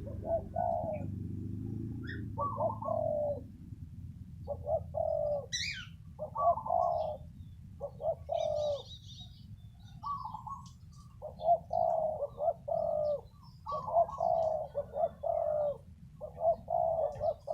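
Spotted doves cooing, phrase after phrase in a steady rhythm, with phrases overlapping at times. A low steady background rumble runs underneath, and a brief high whistle and a few faint chirps from other birds come in between.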